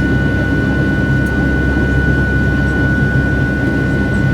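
Boeing 757 cabin noise in flight: a steady engine rumble and airflow hiss with a constant high whine from the engines.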